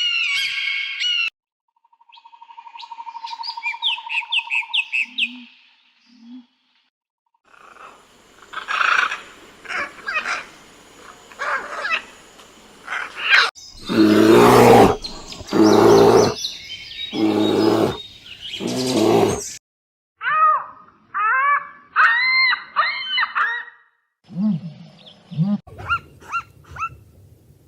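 A run of different animal calls, one clip after another: high chirps first, then three long, loud, low calls about a second apart in the middle, then quick rising chirping calls.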